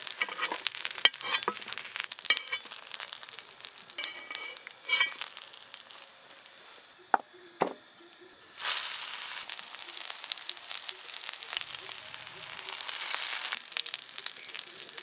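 Fish-roe parcels wrapped in bottle gourd leaves sizzling in a little oil on a tawa, with steady hiss and scattered crackles. The sizzle dies down for about two seconds in the middle, broken by two short knocks, then comes back.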